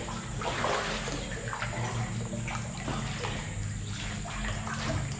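Water sloshing and splashing around a kayak as it moves through the water, with irregular small splashes.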